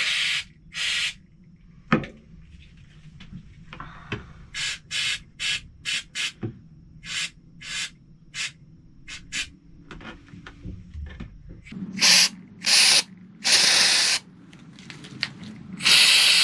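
Aerosol can of Flex Seal rubber sealant sprayed in bursts: a run of short squirts about half a second apart, then a few longer sprays of a second or two near the end. A single knock comes about two seconds in.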